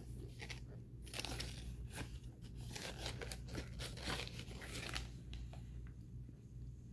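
Crunching of a mouthful of dry cornstarch being chewed, mixed with rustling of the cardboard cornstarch box as it is handled. The crunches come thick from about one to five seconds in and thin out near the end.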